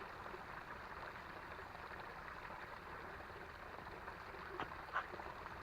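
Creek water running with a steady rushing sound, with two short clicks close together near the end.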